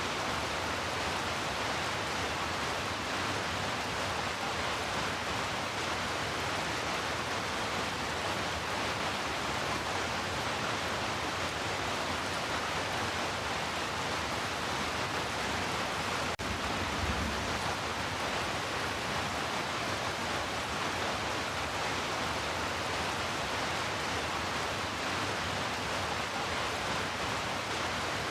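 Heavy rain falling as a steady, even hiss. About 16 seconds in there is a faint click, followed by a brief low thud.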